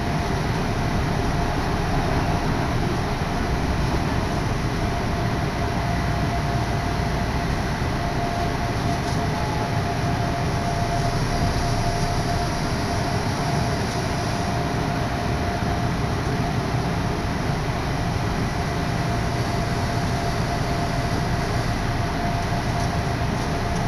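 Interior running noise of an Odakyu Odawara Line electric commuter train in motion: a steady rumble with a continuous even tone running through it.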